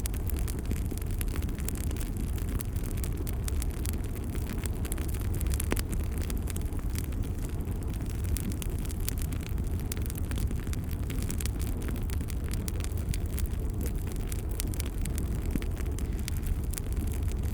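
Wood fire crackling with frequent sharp pops and snaps over a low, steady roar of the flames.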